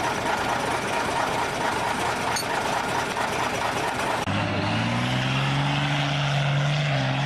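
Heavy diesel truck engines working hard off road: a dense, rough engine noise that cuts off abruptly a little over four seconds in, replaced by a steadier, deeper engine drone that rises slightly in pitch and dips near the end.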